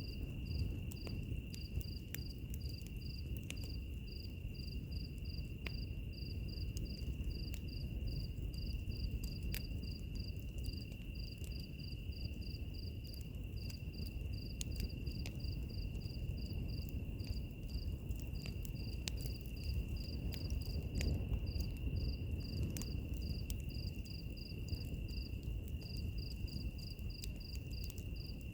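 Wood fire crackling, with a steady low rumble and scattered sharp pops, under insects at night: a continuous high insect drone and a cricket chirping about three times a second.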